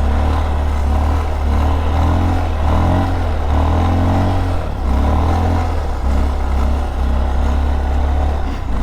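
Motorcycle engine revving up and easing off over and over, its pitch rising and falling several times, as the rider pulls small wheelies.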